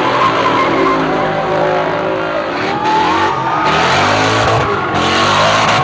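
A car spinning its tyres in a burnout, its engine revving up and down while the tyres squeal.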